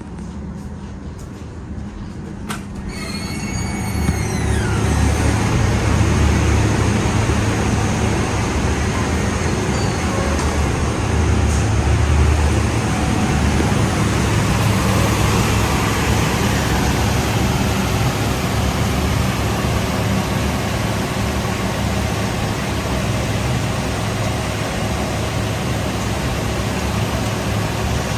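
Industrial machinery of a rock wool production line running with a loud, steady din and a low hum. A short squeal rises and falls about three seconds in, and the din grows louder about a second later.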